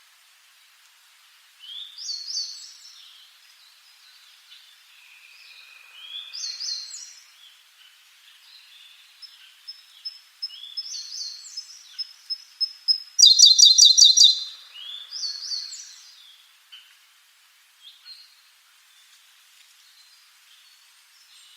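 Songbirds singing: a short sweeping phrase comes back about every four to five seconds, answered by softer chirps. A string of quick single notes leads into a loud, fast trill about thirteen seconds in.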